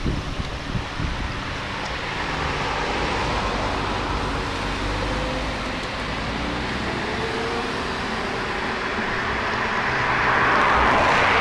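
Car engines running with road noise, getting louder near the end.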